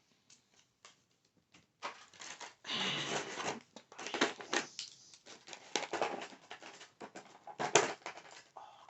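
Fingernails tapping and scratching on small hard objects close to the microphone: quick irregular clicks with a denser rustling scratch about three seconds in.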